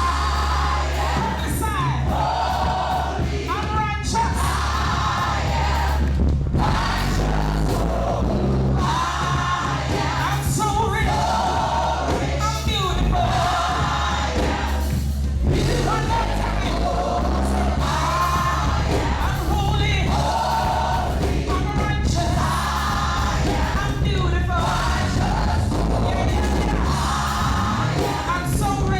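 Live gospel worship music: a band with a heavy, steady bass and singers carrying repeated sung phrases, joined by choir voices.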